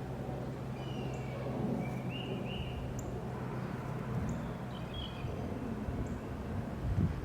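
Songbirds chirping in short calls, several times over, with faint high ticks about once a second and a steady low hum underneath; a few low thumps near the end.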